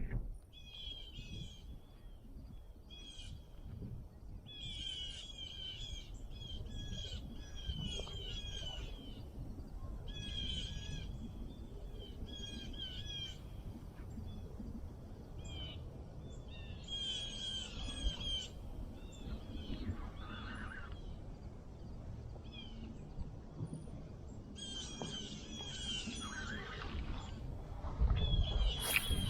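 Birds calling over and over in short chattering bursts, over a steady low rumble of wind on the microphone. Near the end there is a louder bump with a sharp click.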